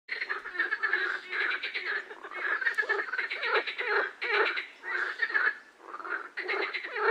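Frog calls: rapid pulsing trills repeated in bouts of about a second, with short pauses between bouts.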